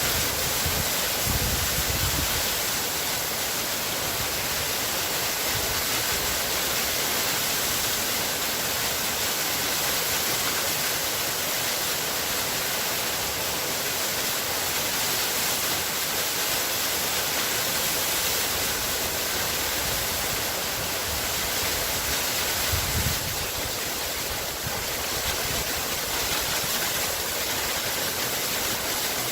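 Waterfall: a steady, even rush of falling water, with a couple of brief low rumbles, one about a second in and one near the 23-second mark.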